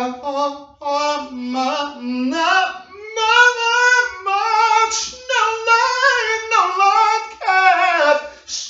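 A single voice singing unaccompanied, a wordless or indistinct melody in short phrases that hold and slide between notes. The pitch climbs over the first few seconds, stays higher through the middle, and drops back down near the end.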